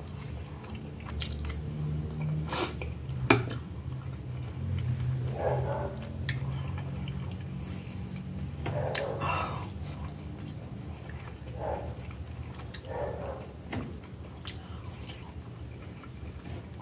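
Close-miked chewing and mouth sounds of someone eating soft boiled vegetables such as chayote. A few sharp clicks of a fork against the plate come through, the loudest about three seconds in.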